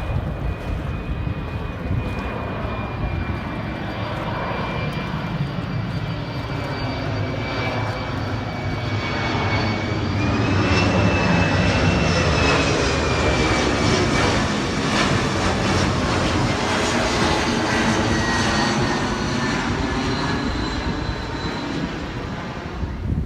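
An aircraft engine passing overhead: a steady drone with a high whine, growing louder to a peak a little before halfway through, then slowly fading.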